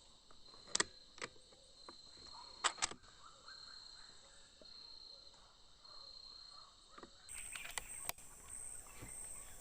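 Insects chirping, a high tone repeated in short pulses, with a higher pulsing chirp joining near the end. Four sharp clicks come in the first three seconds, two of them close together.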